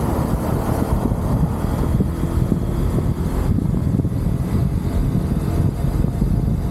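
UM Renegade Commando 125 motorcycle engine running steadily at cruising speed, a continuous low rumble without breaks or changes in pace.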